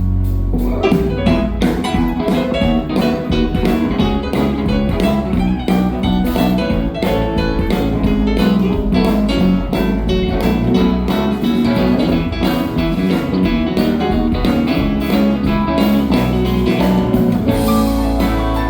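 Live band playing an instrumental passage: busy guitar lines over bass and drums. The full band comes in about a second in, after a held chord.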